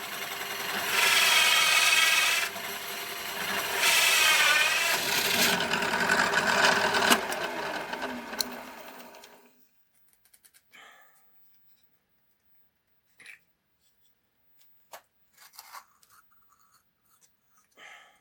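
A workshop machine or mechanism running with a pitched whine that rises and falls in pitch, dying away about nine seconds in, followed by a few faint knocks.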